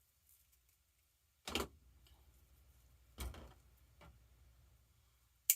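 A few dull knocks from craft materials being handled on a work surface, about a second and a half apart, then one sharp click near the end.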